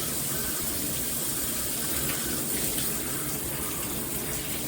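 Shower water spraying steadily from a Hibbent all-metal shower head combo, an even hiss of strong flow.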